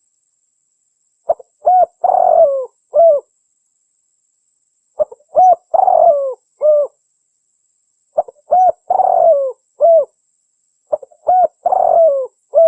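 Spotted dove (tekukur) cooing: the same phrase four times, about every three and a half seconds, each a couple of short notes, a longer falling coo and a short closing note. It is a recorded call used as a lure to draw in wild spotted doves.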